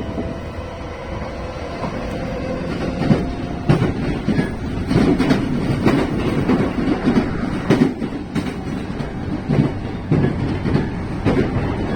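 Keiyo Line commuter electric train running along the line, heard from inside the passenger car: a steady low rumble broken by irregular sharp clacks from the wheels on the track.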